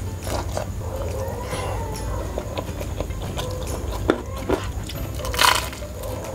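Close-miked eating sounds: chewing and crunching of super-crispy fried chicken and rice eaten with the hands, a scatter of small crackles and clicks. A louder crunch comes about five and a half seconds in.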